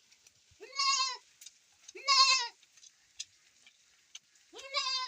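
Goat bleating three times, each bleat a quavering call lasting about half a second.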